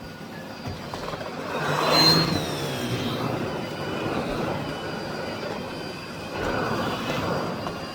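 Miele Blizzard CX1 bagless cylinder vacuum cleaner running, a steady motor whine with suction noise. About two seconds in the sound swells loudest and the high whine slides down in pitch, then settles back.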